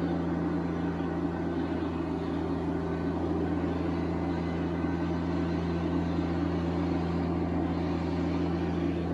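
TYM T574 subcompact tractor's diesel engine running at a steady speed, a constant low drone.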